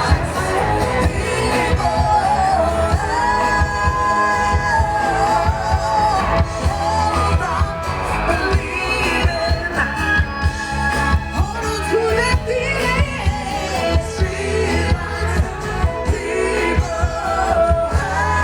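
Live band playing a pop-rock song, with a singer holding long notes over the band.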